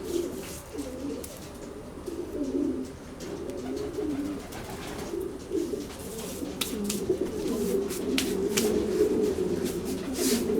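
Many pigeons cooing together in a chorus of low, overlapping warbling coos, with scattered sharp clicks and rustles among them in the second half.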